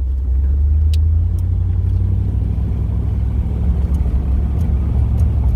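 1969 Chevrolet Corvette's V8 engine running steadily as the car is driven, a low, even rumble.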